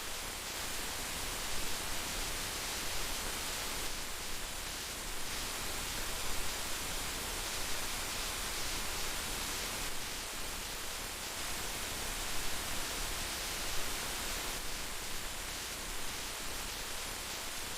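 Heavy rain falling steadily: a dense, even hiss with small swells in loudness.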